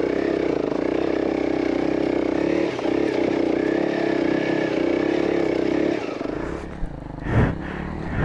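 Honda CRF300L dual-sport motorcycle's single-cylinder engine running at a steady speed. About six seconds in, the note drops and turns rougher, with a couple of brief surges near the end.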